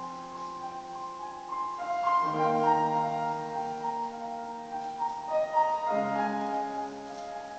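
Piano accompaniment to a choral piece, playing held chords, with new chords struck about two seconds in and again about six seconds in.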